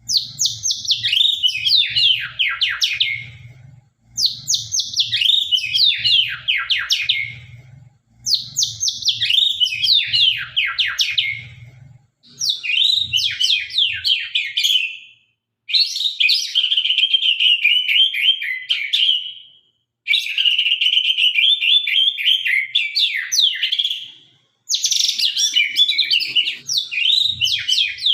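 White-rumped shama (murai batu) of the Sabang strain singing in full song. It gives seven sharp phrases, one about every four seconds, each a rapid run of high, sweeping notes. The later phrases carry steadier trills.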